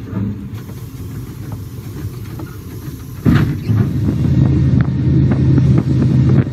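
Locomotive cab noise as the train runs through snow-covered trees: a steady low rumble with scattered clicks and knocks. About three seconds in it jumps suddenly louder, to a heavier rumble with a steady hum.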